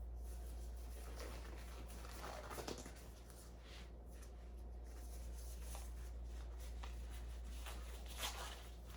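Faint rustling and handling of disposable exam gloves being pulled on, in a few brief bursts, over a low steady hum.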